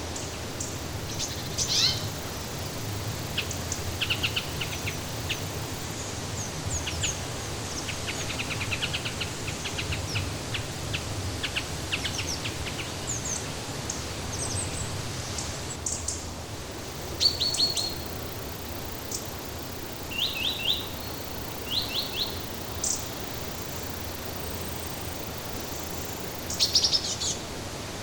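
Small birds chirping in short, quick series of high notes, with the loudest chirps about two-thirds through and near the end, over a steady rushing background hiss.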